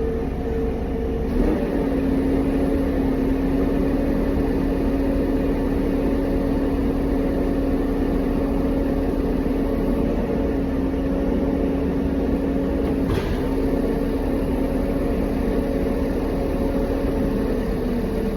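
A vehicle engine running steadily at an even speed, with a constant hum that steps up slightly about a second and a half in.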